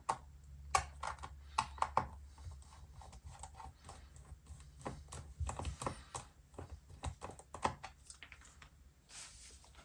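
Small, irregular metallic clicks and ticks of a precision screwdriver working the tiny 1.2 mm pentalobe screws out of a MacBook Pro's aluminium bottom case, with a faint low hum under the first six seconds or so.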